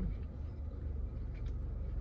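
A person chewing a chicken nugget with the mouth closed, a few faint wet clicks about one and a half seconds in, over the steady low rumble of a car idling.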